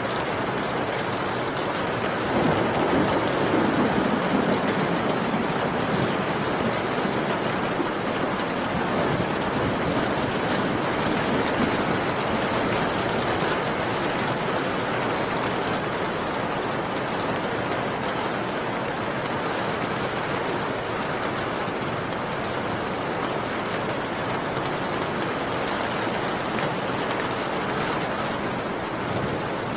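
Steady heavy rain, a dense even hiss of falling drops, with a low rumble swelling briefly a few seconds in.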